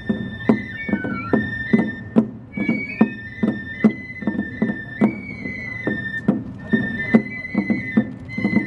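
Chinese-style ensemble music in the minshingaku manner: a high, gliding melody line held over a steady beat of drum and percussion strikes, about two to three a second.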